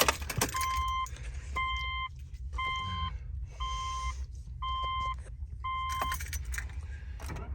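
Car's warning chime dinging six times, about once a second, each ding a short steady tone, with keys jangling and clicking.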